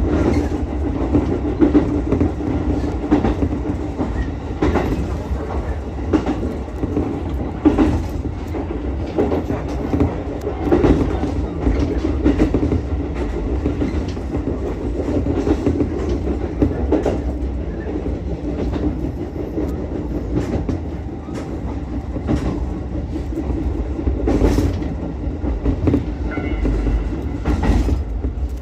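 Ichibata Electric Railway 7000-series electric railcar running along the line: a steady rumble of wheels on rail with irregular clicks as the wheels cross rail joints.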